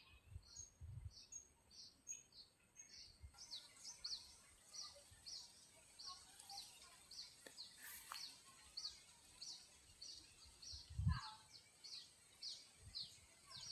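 A small bird chirping over and over, about three short high chirps a second, with a few low thumps.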